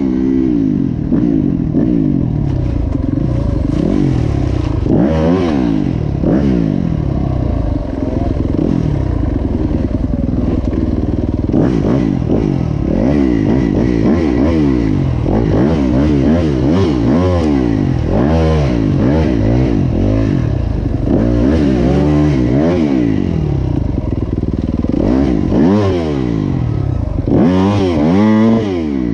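Motocross bike engine revving hard and dropping back again and again as it rides the track, its pitch climbing and falling every second or two through the throttle and gear changes.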